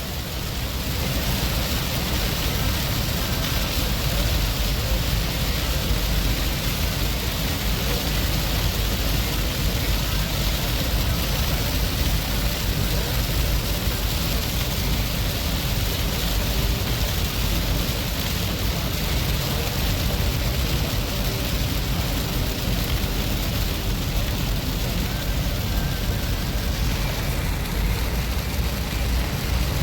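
Heavy rain on a moving car mixed with steady road noise and wet tyre spray, heard from inside the car as a constant rushing noise with a deep rumble.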